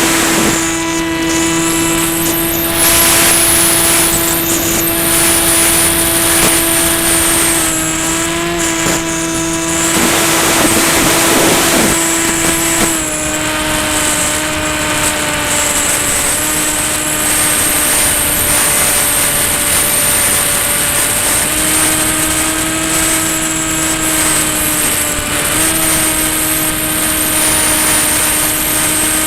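Ranger EX FPV plane's electric pusher motor and propeller droning steadily in flight, with wind rush over the microphone. The pitch drops a little about halfway through, then steps back up twice near the end as the throttle changes.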